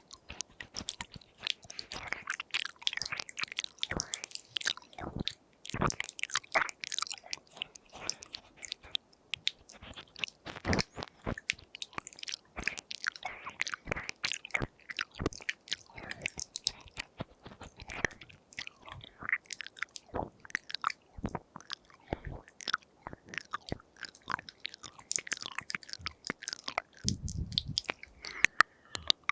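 ASMR mouth sounds close to a binaural microphone: dense, irregular wet clicks, pops and smacks of tongue and lips. A brief low rumble comes near the end.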